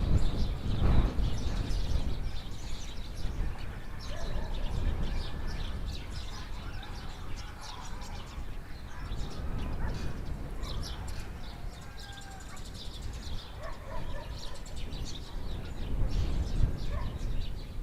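Rural village ambience: small birds chirping throughout, with scattered other bird calls, over a steady low rumble.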